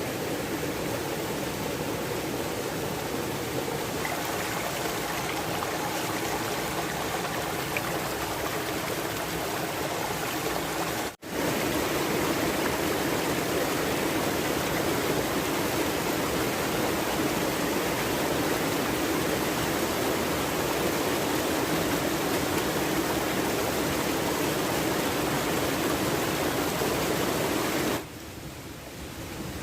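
Steady rushing water, a dense even hiss. It cuts out for an instant about eleven seconds in and comes back louder, then drops in level suddenly near the end.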